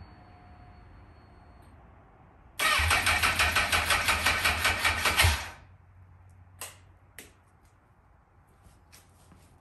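2007 Honda CBR1000RR's inline-four, through an aftermarket slip-on muffler, catches about two and a half seconds in and runs for about three seconds, then cuts off suddenly. It runs with the throttle stuck wide open because the broken throttle assembly has left the cables pulled, and the sound is loud.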